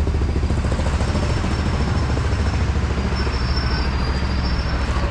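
Miniature park railway train running past with a steady low rumble.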